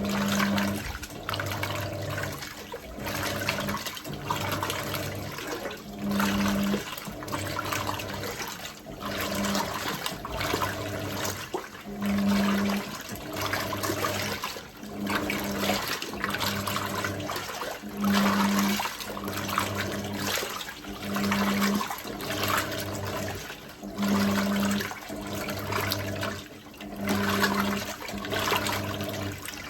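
Hoover 1400 top loader's PowerPulse agitator churning the load in rinse water. The motor hums in regular pulses roughly every second and a half, with water sloshing each time.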